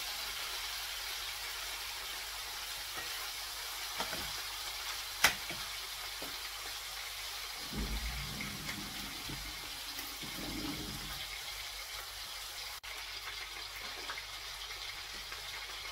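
Chicken pieces with ginger-garlic paste frying in oil in a stainless steel pan: a steady sizzle. A single sharp click sounds about five seconds in.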